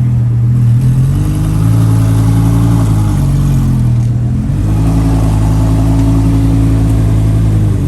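A truck's engine running loud as it drives by, its pitch stepping up about a second in, dropping back near three seconds, stepping up again around four and a half seconds and falling off at the end.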